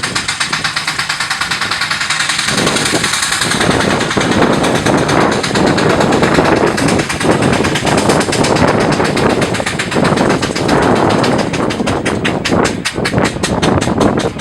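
McLaren steam traction engine working hard under load while pulling the sled, its exhaust beating in a quick, even rhythm. It gets louder about two and a half seconds in, and the beats grow sharper near the end.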